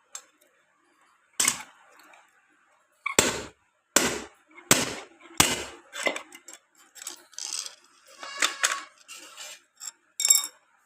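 Metal tools and ceiling fan parts being handled: about five sharp knocks in the first half, then lighter clinks and rattles with a brief metallic ring near the end.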